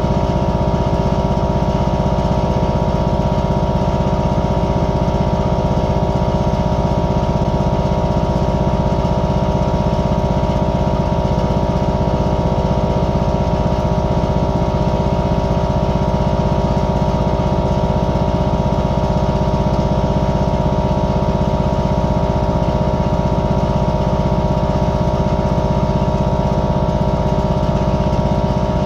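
An engine running steadily at one constant speed, with no change in pitch.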